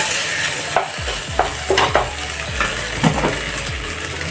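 Boiled elephant apple, potato and tomato sizzling as they are stir-fried in hot oil, with a spatula stirring and scraping the pan in several short strokes.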